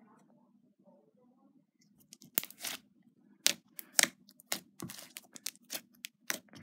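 A large sticky slime being poked by hand, giving irregular sharp crackles and pops that start about two seconds in.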